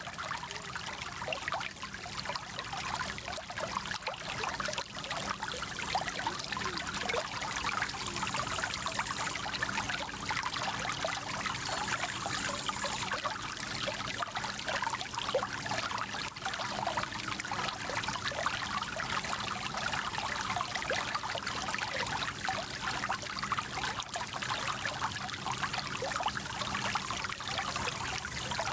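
Small stream flowing steadily, a continuous trickling babble of many small splashes.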